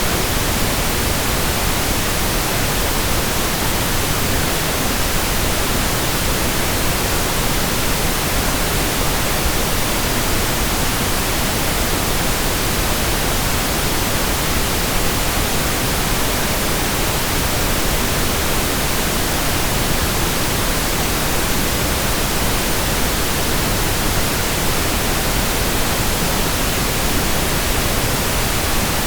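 Steady pink noise: an even, constant hiss spread across all pitches, unchanging throughout.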